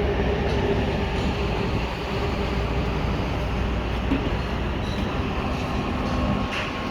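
Steady rumble of running machinery on a construction site, with a low hum that fades about a second and a half in and comes back faintly near the end.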